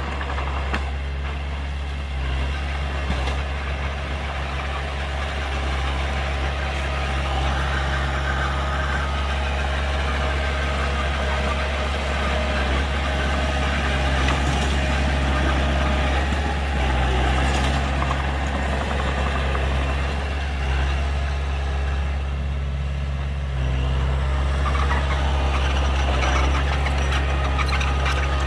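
Heavy diesel engine running steadily with a deep, constant low drone, typical of a dump truck or bulldozer at work.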